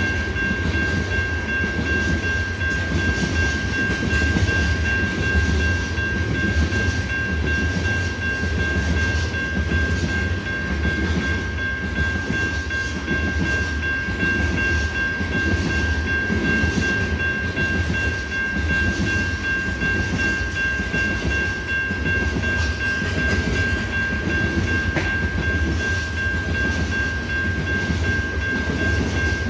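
Freight cars of a CN ore train rolling steadily past, with a steady high-pitched tone over the rumble of the wheels.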